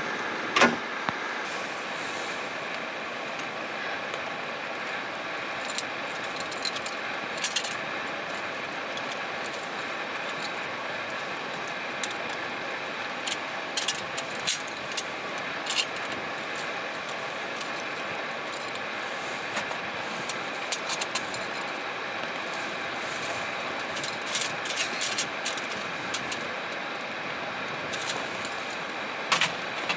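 Steady rain hiss with scattered sharp clicks and taps of drops landing close by.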